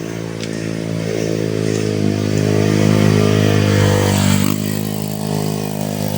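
Motorcycle engine running close by with a steady pitch, growing louder partway through and then easing off.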